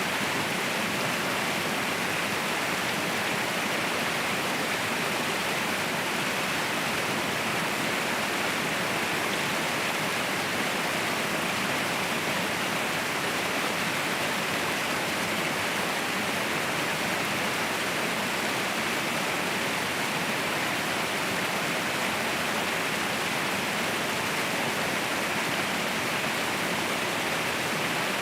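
Waterfall rushing steadily, a constant even roar of falling water with no breaks.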